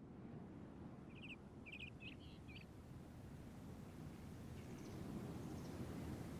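Faint outdoor ambience: a small bird chirps several times in quick succession between about one and three seconds in, with a few fainter chirps later, over a low, steady rumbling background noise.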